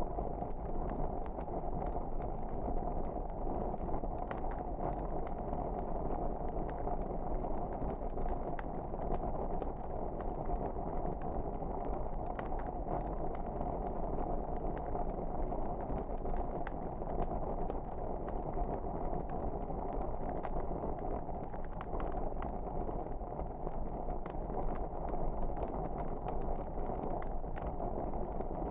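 Wood fire in a fireplace crackling, with frequent small irregular pops over a steady low rush of the flames.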